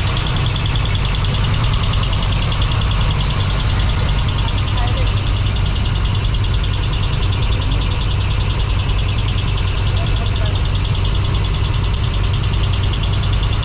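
Large decorated truck's engine idling with a steady low rumble, while insects chirp in a fast, even pulse and voices murmur in the background.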